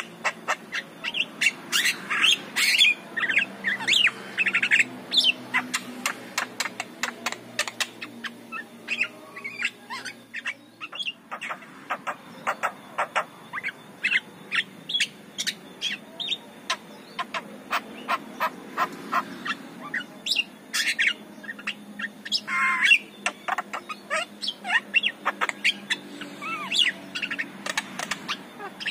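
Javan myna calling: a long, rapid chatter of short, sharp notes, broken now and then by squeakier gliding whistles.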